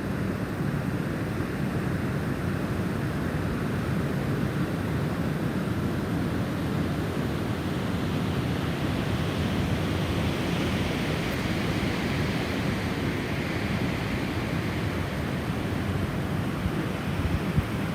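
Snowstorm wind blowing steadily, a gust swelling into a higher hiss in the middle of the stretch and easing off again. A few low bumps of wind on the microphone near the end.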